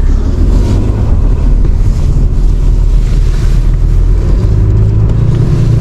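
Tow truck's engine running while it manoeuvres, heard from inside the cab as a steady deep drone that grows a little louder near the end.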